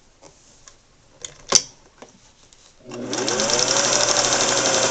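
A sharp click about a second and a half in. Then a Singer 401A sewing machine starts up, its motor whine rising in pitch as it comes up to speed, and runs steadily, stitching through layers of denim.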